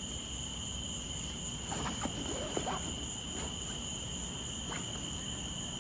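Steady high insect chorus, typical of crickets at night, with a few short, faint squeaky animal calls over it.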